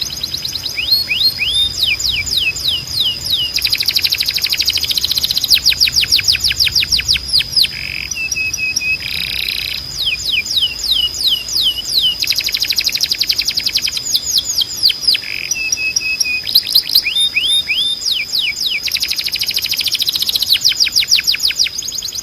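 Domestic canary singing a continuous song of rapid trills and runs of fast, repeated downward-sweeping whistled notes, the phrase changing every second or two.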